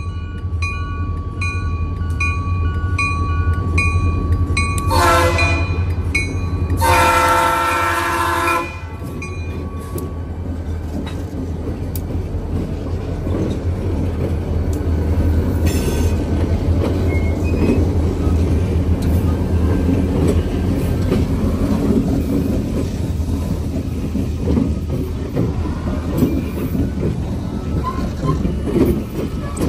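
A train led by EMD diesel locomotives: their engines run with a steady low drone while a bell dings about twice a second for the first few seconds. The locomotive horn then sounds twice, about five and seven seconds in, the second blast longer. After that the rumble and clatter of wheels on rail builds.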